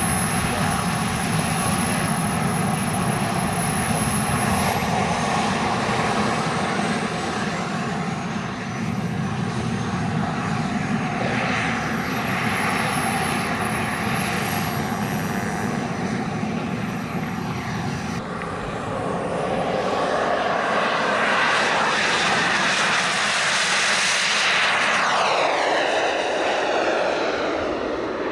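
Turbine engines of large radio-controlled model jets running over the airfield: a steady roar with a thin high whine that wavers up and down in pitch. Near the end several tones slide down in pitch together.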